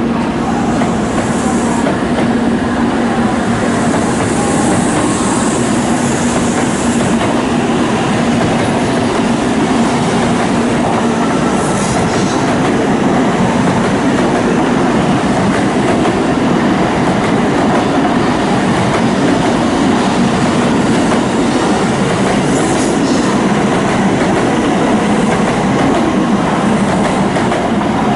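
A Shinkansen bullet train moving slowly along a station platform: steady loud running noise of the train, with a low hum that fades out about seven seconds in.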